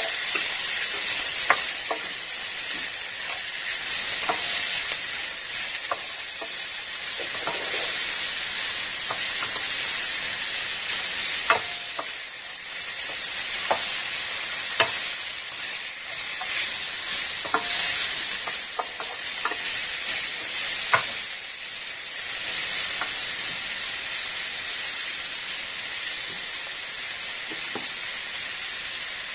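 Chicken and carrot strips sizzling in hot oil in an electric skillet as a wooden spatula stirs them, with a sharp tap of the spatula against the pan every few seconds.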